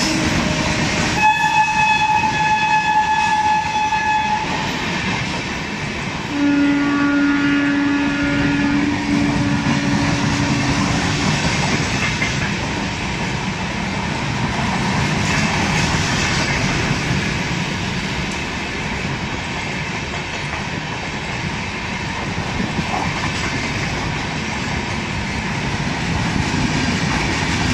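Passenger coaches of an express train rushing past at speed, with a steady rattle and rush of wheels on the rails. A train horn sounds twice over it: a higher blast from about a second in lasting about three seconds, then a lower blast from about six seconds in lasting about five seconds.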